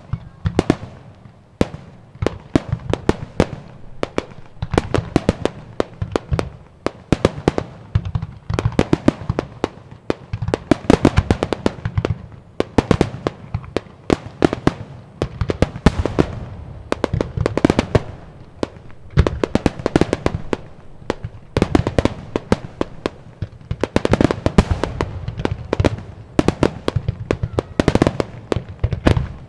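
Fireworks barrage, star-mine style: shell bursts follow one another in quick, dense volleys with a deep rumble beneath, hardly letting up.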